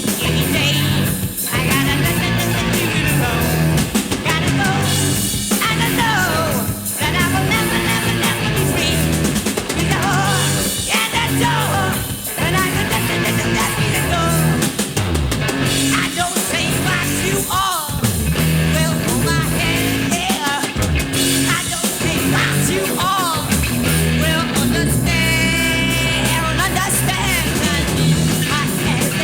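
Hard rock band playing: electric guitar, bass and drum kit at a steady beat, with a male voice singing at times.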